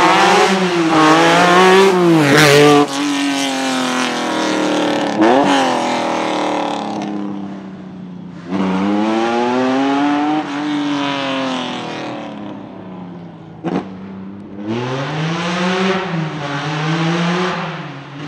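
Lancia Stratos rally car's engine revving hard as it accelerates away, its pitch climbing and then dropping at each gear change in several bursts. A few sharp cracks are heard, and the engine fades into the distance at the end.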